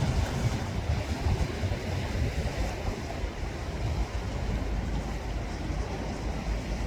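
Sea waves washing on the shore with wind buffeting the microphone; the hiss of the wash dies down about three seconds in.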